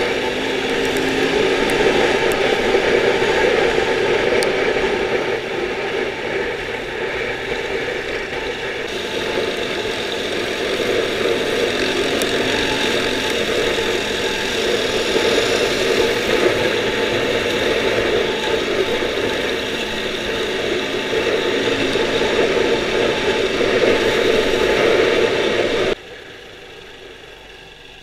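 Dirt bike engine running under way at riding speed, heard from the rider's own bike. About two seconds before the end it cuts down suddenly to a much quieter level.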